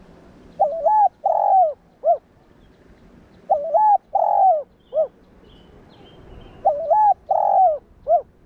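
Spotted dove cooing: three phrases about three seconds apart, each of four notes, two quick notes, a longer one, then a short last note.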